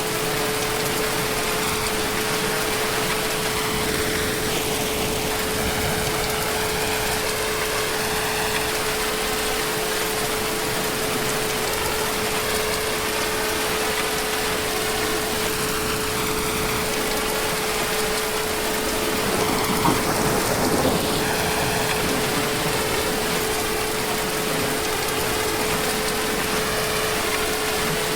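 Heavy rain falling steadily, with a steady hum underneath and a brief louder swell about two-thirds of the way through.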